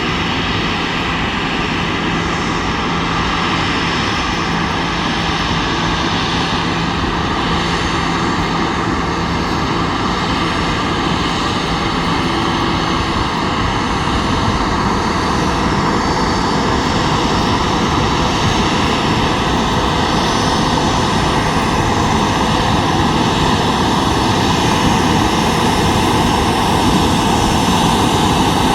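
Boeing 737-800's CFM56-7B turbofan engines running at taxi power: a steady jet whine over a broad rushing noise, slowly growing louder.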